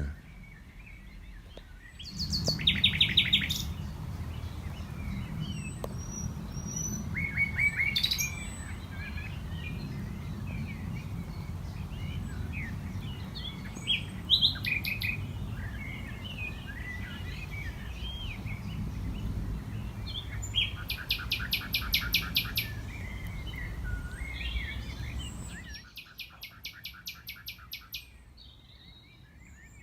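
Male common nightingale singing: loud runs of rapid, evenly repeated notes about three seconds in, again around twenty-one seconds and near the end, with short varied phrases between them. A blackbird sings in the background, and a low rumble lies underneath until shortly before the end.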